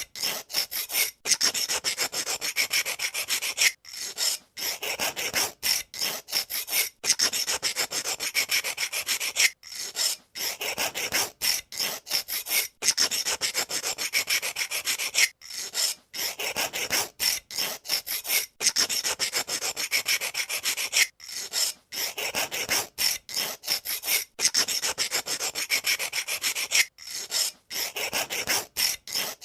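Pencil sharpener shaving a wooden pencil: a continuous rasping scrape made of fine rapid clicks, broken by short pauses every second or few.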